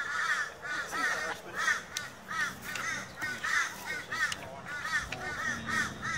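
Birds calling: a continuous run of short, harsh, arched notes, several a second.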